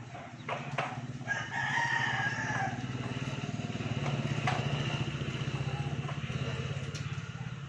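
A rooster crows once, about a second in, over a small engine running steadily.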